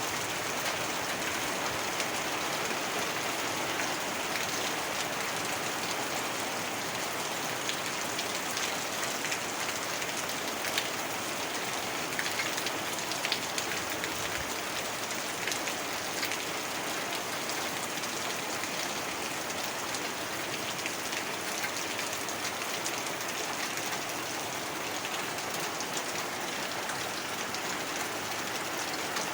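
Steady heavy rainfall, an even hiss of rain with scattered drops ticking on a surface.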